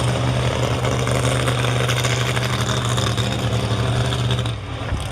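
Monster truck engine running at a steady pitch, dropping away near the end.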